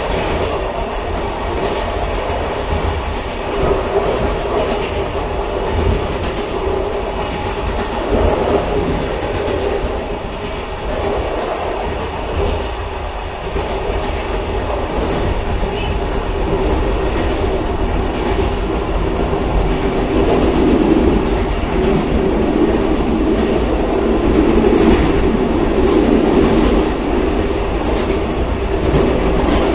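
Railcar running on the track, a steady rumble with wheel clatter over rail joints, growing somewhat louder in the second half.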